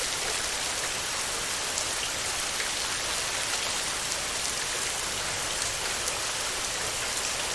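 Heavy rain falling steadily on a tin roof: a dense, even hiss with scattered sharp drop ticks.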